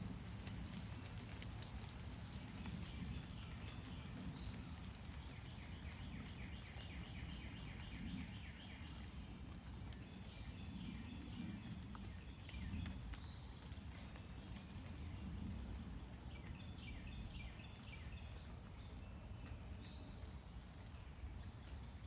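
Small backyard birds chirping, with a rapid trill of repeated notes early on and scattered chirps later, over a steady low outdoor rumble.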